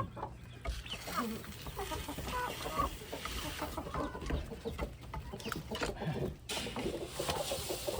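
A flock of backyard hens clucking and murmuring while feeding, with short scattered calls and pecking taps throughout.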